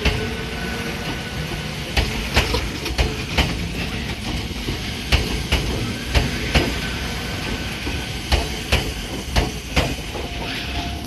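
Fuji Kyuko 1000-series electric train (ex-Keio 5000 series) rolling past the platform. Its wheels clack over a rail joint, mostly in pairs as each bogie crosses, over a steady rumble. A rising motor whine fades near the start.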